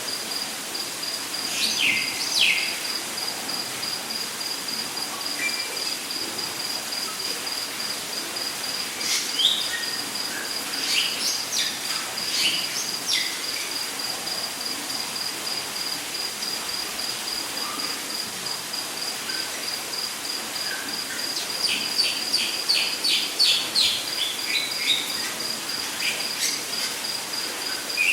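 Rainforest ambience: an insect trilling steadily in a high, rapidly pulsed tone, with birds calling at intervals in short chirps and whistles, including a quick run of rapid notes about three-quarters of the way through, over a steady hiss.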